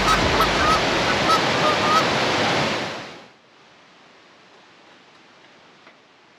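Loud steady rush of river water, with short high calls repeating over it. About three seconds in it fades out quickly, leaving only a faint steady hiss.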